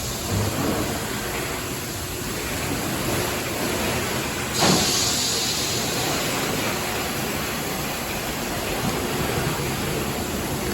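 Ryko Voyager automatic car wash running its brushes over the car, a steady wash of scrubbing and water noise. A short surge of spray hiss comes about four and a half seconds in.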